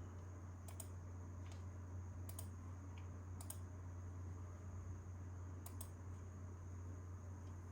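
A few scattered clicks of computer keys, about six spread irregularly over several seconds, over a steady low hum.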